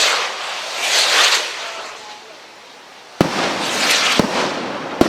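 Flash 4 firework rockets: a hissing rush in the first second or so, then from about three seconds in a sharp bang followed by more bangs in quick succession as the rockets burst.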